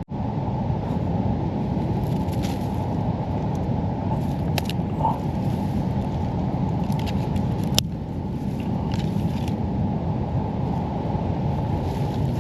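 Steady low rumble of ocean surf and wind on the microphone, with a few brief sharp clicks about four and a half and eight seconds in.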